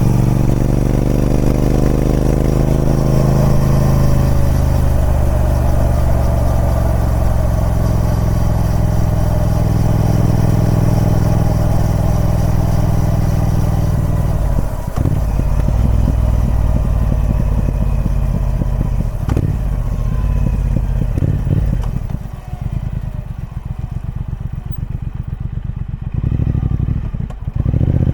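Triumph Speed Twin 1200's 1200 cc parallel-twin engine running through its stock exhaust. The revs fall over the first few seconds and then hold steady. About 22 seconds in it drops to a quieter, low-revving even beat, and near the end the revs rise again.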